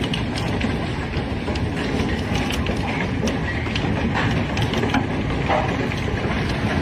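Hailstorm: a dense, steady roar of falling ice with many sharp, irregular clicks as hailstones strike hard surfaces.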